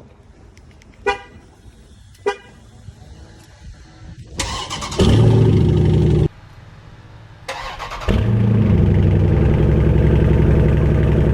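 Two short horn chirps, then the 6.4-litre HEMI V8 of a 2020 Jeep Grand Cherokee SRT is started cold with its exhaust unhooked from the headers. It runs loud and open for a second or two, cuts off suddenly, then fires again a couple of seconds later and settles into a loud, steady idle.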